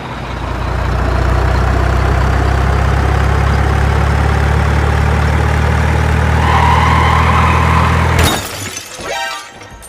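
Truck engine running steadily, swelling up over the first second. It cuts off suddenly about eight seconds in, followed by a short burst of clattering, breaking-like noise.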